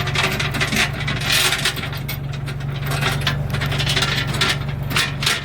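Metal lifting chain clinking and scraping with many short sharp clicks as it is wrapped and hooked, over the steady low hum of an idling engine.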